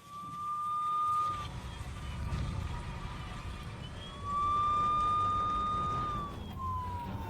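Fire truck siren sounding a held high tone twice, each ending in a downward slide, with a final falling glide near the end, over the low rumble of the truck's engine.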